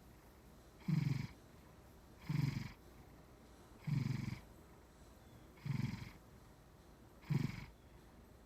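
Sleeping Maine Coon cat making short fluttering snores, one with each breath, five in all about every second and a half.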